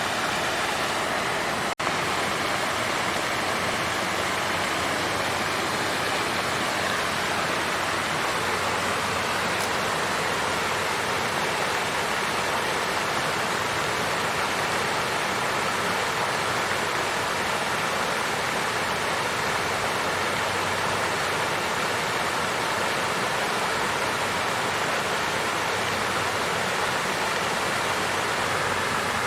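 Water fountain with water flowing and splashing in a steady, even rush, with a momentary break about two seconds in.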